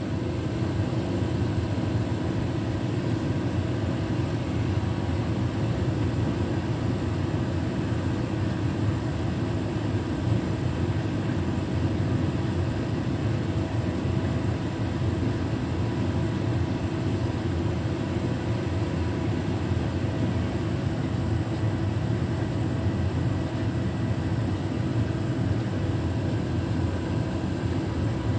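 Beko WTK104121W washing machine's drum motor running steadily as the machine tries to go into an intermediate spin, with a low, even drone that neither rises nor falls.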